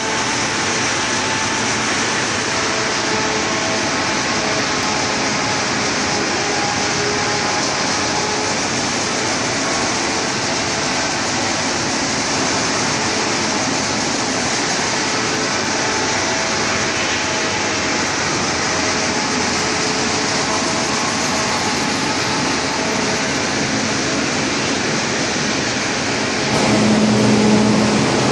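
Wood chipper running steadily, a dense continuous mechanical noise with faint whining tones. Near the end a low hum comes in and the sound gets a little louder.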